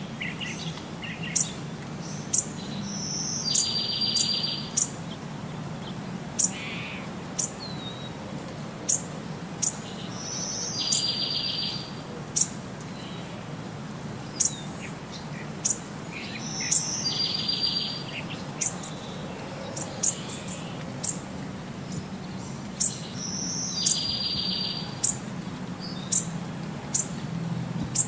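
Birds singing: sharp high chirps about once a second, and every six or seven seconds a rapid high trill lasting about a second, over a low steady hum.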